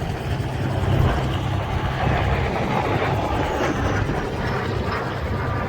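Propeller aircraft's piston engine running in flight, a steady noisy drone with a faint falling whine partway through.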